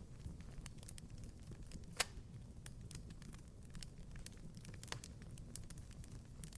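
Wood fire crackling in a fireplace: scattered small pops and snaps over a low rumble, with one sharp louder pop about two seconds in and another near five seconds.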